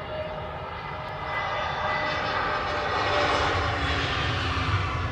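An easyJet jet airliner passing close as it comes in to land, its engine noise swelling to a peak about three seconds in, with steady whining tones over the roar.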